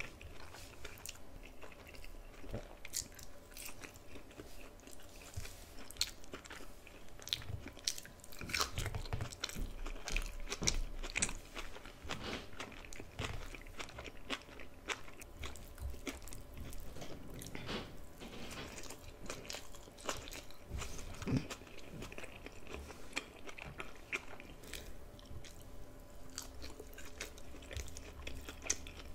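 Close-miked chewing and biting, with many sharp crisp crunches, as a meal of potato fries, bok choy, tomato-stewed jack mackerel and rice is eaten.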